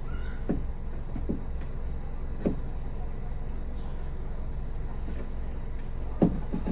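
Power window of a Nissan Grand Livina's driver's door being run after repair: a steady low hum, with four short knocks or clicks spread through it.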